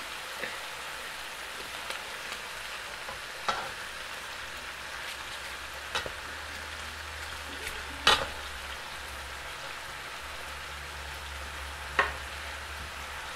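Diced vegetables (potato, chayote, carrot) sizzling steadily in hot oil in an aluminium pot as they sauté, with four sharp knocks of the stirring spoon against the pot.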